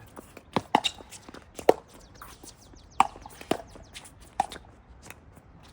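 Pickleball rally: sharp pops of paddles striking a plastic pickleball, with the ball bouncing on the court in between. The pops come at uneven intervals, the loudest roughly a second apart.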